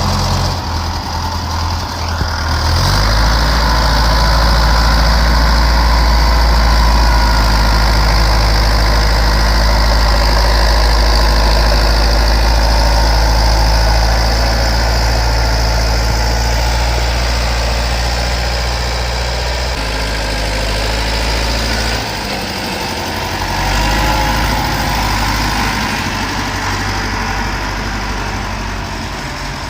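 County 764 tractor's diesel engine working, its note swelling as it takes load about three seconds in. It eases back for a moment a little past twenty seconds and picks up again soon after.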